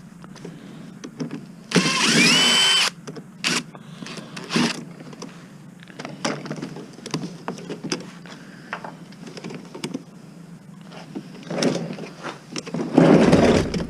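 A power drill spins up for about a second, its whine rising and then holding. Scattered clicks and knocks of metal appliance parts being worked follow, and a louder rattle of metal comes near the end.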